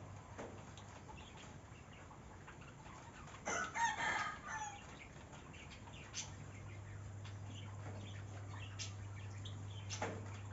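Rooster crowing once, a call of about a second, a little over three seconds in, over a steady low hum and a few short clicks.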